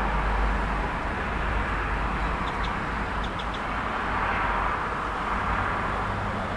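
Steady road traffic noise with a low rumble underneath, and a few short, high bird chirps about halfway through.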